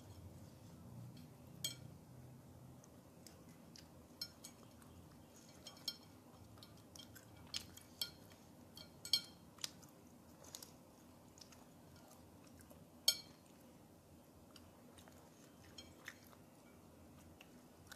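Quiet close-up eating sounds of goat satay being chewed, with a dozen or so short sharp clicks and smacks scattered through, the loudest about nine and thirteen seconds in.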